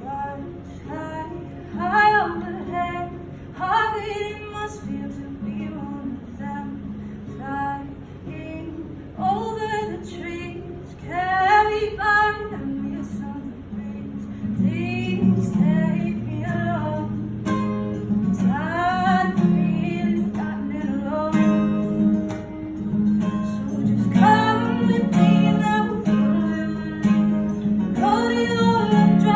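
Female voice singing a song over acoustic guitar; the guitar accompaniment grows fuller about halfway through.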